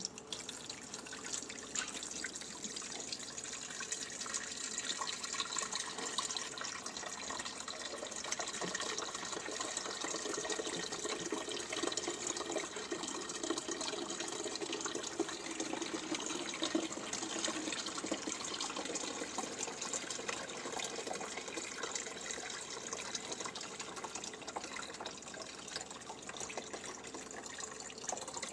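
Water running steadily from a tap; it starts abruptly and eases off near the end.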